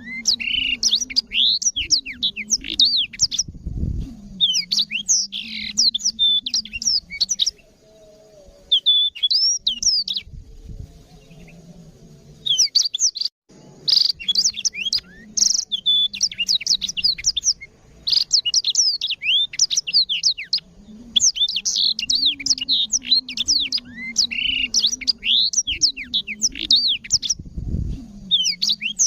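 Black-throated canary (blackthroat) singing long runs of fast, high, twittering song phrases, with a few quieter seconds near the middle before it resumes. A faint steady low hum lies underneath.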